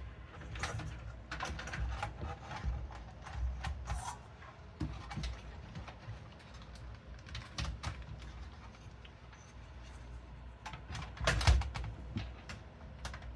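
A micro-ATX motherboard being handled and fitted into a mid-tower PC case: scattered clicks, taps and scrapes of the board against the metal case and standoffs, with a louder cluster of knocks near the end as it is seated.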